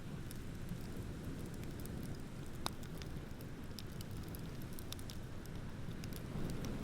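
Wood bonfire crackling, with scattered sharp pops and one louder pop a little under three seconds in, over the steady low rumble of ocean waves.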